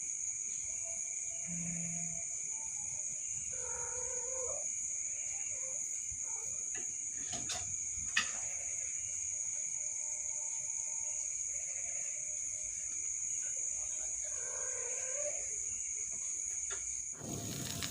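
A cat meowing twice, short drawn-out calls about ten seconds apart, over a steady high-pitched whine. A single sharp click comes about eight seconds in.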